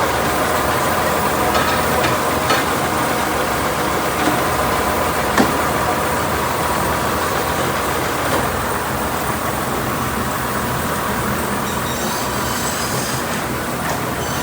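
A truck's engine running steadily, with a few short sharp knocks, the loudest about five seconds in.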